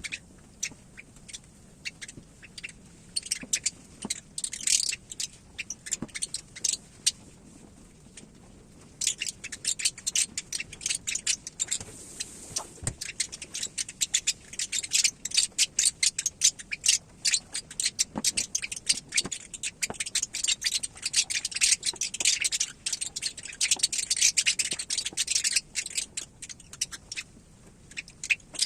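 Rapid, irregular scratching and tapping, typical of a parrot chick working its way out of the eggshell. The taps are sparse for about the first nine seconds, then come thick and fast.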